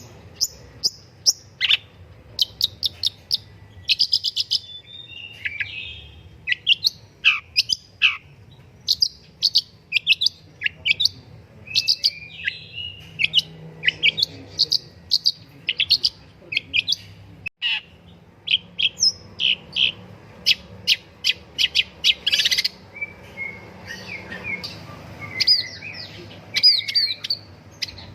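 Long-tailed shrike (pentet, cendet) singing a fast, busy song of sharp short chirps in quick runs, mixed with brief falling whistles.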